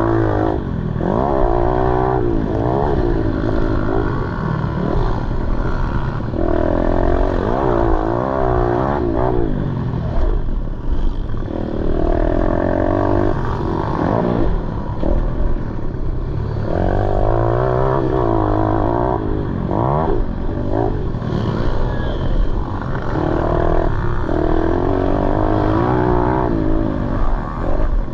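Pit bike engine being revved hard again and again, its pitch climbing and dropping every few seconds as the throttle is opened and closed.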